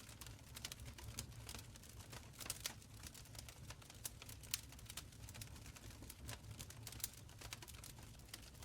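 Wood fire crackling in a stone fireplace: quick irregular small crackles over a soft low rumble of the flames, with a few louder pops.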